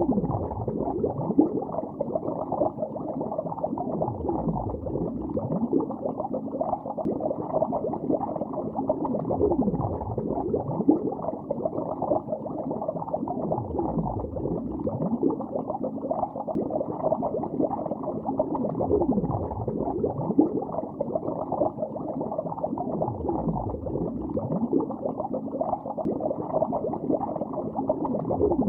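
Water bubbling continuously, recorded underwater: a dense, muffled burble with nothing bright on top, and a deeper surge about every five seconds.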